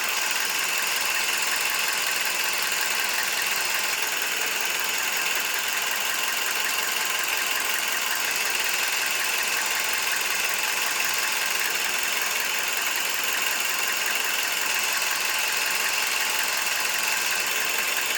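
Toyota Vitz turbo's four-cylinder engine idling steadily, heard up close, with most of its sound in the upper range. It has just been treated with a molybdenum disulfide oil additive, and the owner feels it may now be a little quieter.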